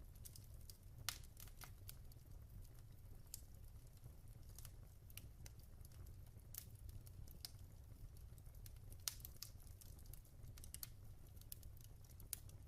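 Wood fire in a fireplace crackling faintly, with irregular sharp pops over a low steady rumble. Louder pops come about a second in, around nine seconds in, and near the end.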